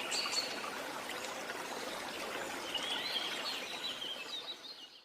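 Jungle waterfall rushing steadily, with birds chirping over the water, most busily in the second half. Everything fades out near the end.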